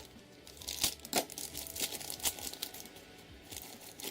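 Plastic parcel packaging crinkling and crackling as it is handled and opened, with a few sharper crackles about one second in and again about two seconds in.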